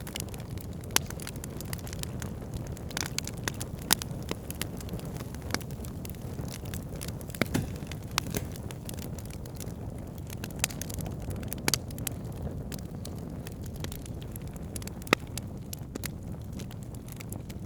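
Wood campfire burning, with a steady low rush of flames and irregular sharp crackles and pops, a few of them much louder than the rest.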